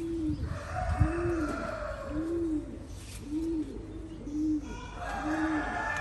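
A bird cooing over and over, short low arched notes at about one a second, with bursts of rougher, higher bird chatter about half a second in and again near the end.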